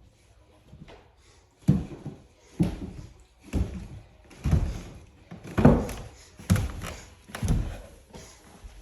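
Footsteps on stairs: about seven thudding steps, roughly one a second.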